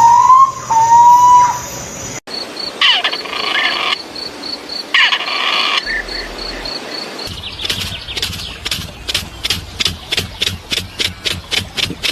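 Bird calls in short clips cut one after another: a rising whistled note, then two spells of calling, then a long series of sharp, repeated notes that come faster toward the end.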